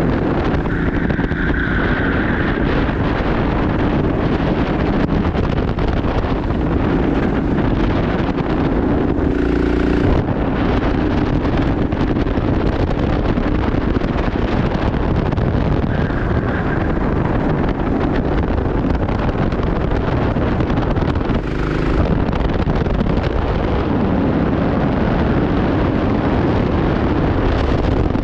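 Onboard sound of a racing kart at speed: the engine runs continuously under heavy wind noise on the microphone, its note shifting as the kart speeds up and slows through the corners. Two brief knocks come through, about ten and twenty-one seconds in.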